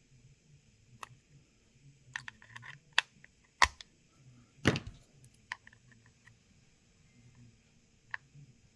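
Irregular small clicks and taps of hand tools such as tweezers against phone parts, with a cluster of quick ticks around two seconds in and a louder, slightly longer knock just under five seconds in.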